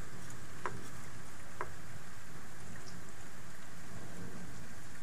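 Steady thunderstorm rain, an even hiss of falling water, with two sharp drop ticks about a second apart in the first two seconds.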